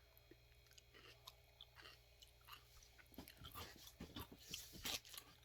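Faint chewing and crunching of a raw vegetable: scattered crisp crunches that grow denser and louder over the last couple of seconds.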